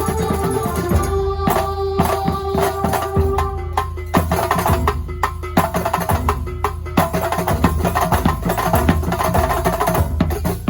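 Kuntulan music, the traditional drum ensemble music of Banyuwangi: frame drums and hand drums playing a dense, fast rhythm. A held melodic line sounds over the drums during the first few seconds, then stops.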